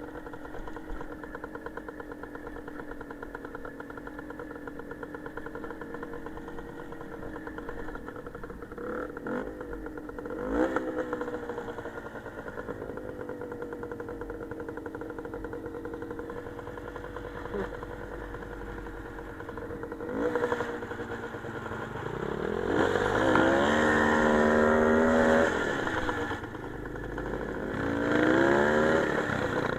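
Motorcycle engine running under way, steady with small shifts in pitch as the throttle moves. About two-thirds of the way in it revs up louder and higher for a few seconds, and it revs up again near the end.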